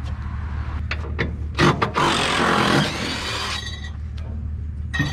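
Sawmill parts being handled during assembly: a couple of sharp knocks about a second and a half in, then about a second and a half of scraping and rustling, over a steady low hum.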